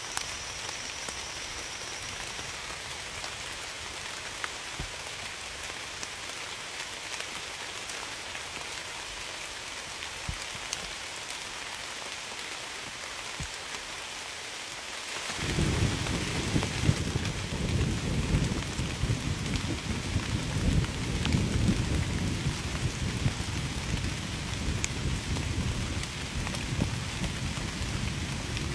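Steady rain falling, with scattered drop ticks. About halfway through, a deep low rumble of thunder starts suddenly and rolls on to the end.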